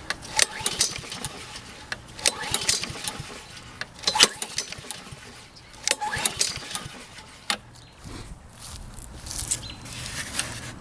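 Honda GCV160 lawn mower engine being pull-started on choke: several pulls of the recoil starter cord, about every two seconds, with the engine turning over but not catching. A faint low hum comes in near the end.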